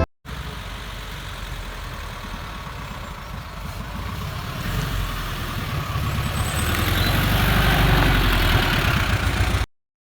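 Ferrari 360's 3.6-litre V8 engine running with a low, steady rumble that grows louder over several seconds, then stops abruptly near the end.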